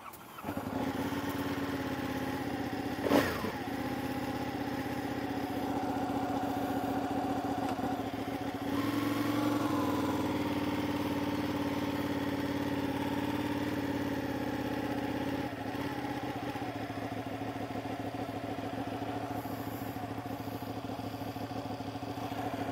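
Sport motorcycle engine running steadily at low revs while rolling slowly. There is one sharp clunk about three seconds in, and the revs rise briefly around nine seconds.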